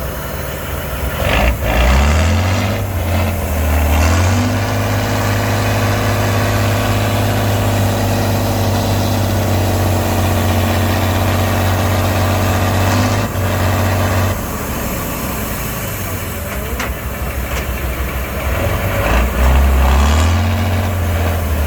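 Heavy truck's diesel engine revving up about two seconds in and holding a steady pitch under load for about ten seconds. It drops back around fourteen seconds in, then revs up again near the end.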